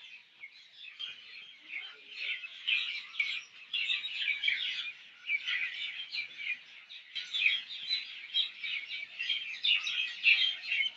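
Many small birds chirping at once: a dense, continuous chorus of short, high calls overlapping one another.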